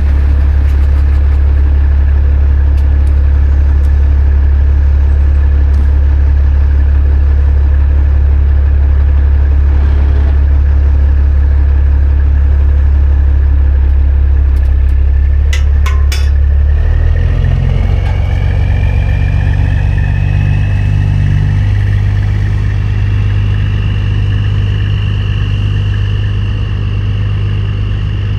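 Heavy diesel engine running steadily under load. A few sharp clicks come a little past halfway, then the engine note shifts and a higher whine rises and holds.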